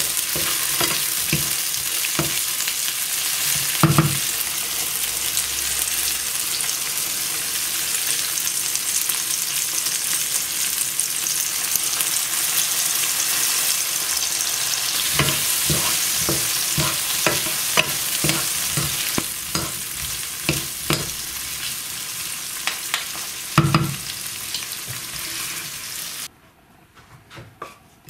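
Sliced sausage and onions sizzling in a frying pan, with a wooden spatula knocking and scraping against the pan as they are stirred. The sizzle cuts off suddenly near the end.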